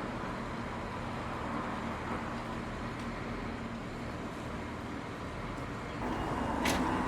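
Steady background noise, an even hiss with a faint low hum, growing a little louder about six seconds in, with a short click near the end.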